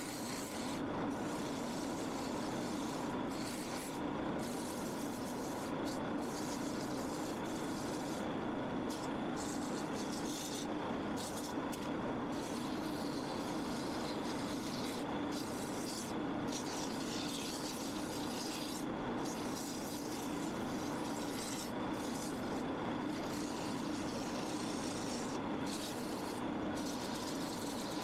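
Shopsmith lathe running steadily while sandpaper is held against the spinning spalted maple peppermill blank. The sanding makes a rubbing hiss that breaks off briefly every few seconds as the paper is lifted.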